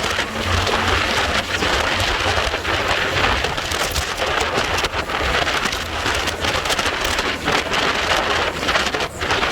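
Wind buffeting the microphone on a moving motorcycle, over the low, steady running of a Yamaha Virago 250's V-twin engine.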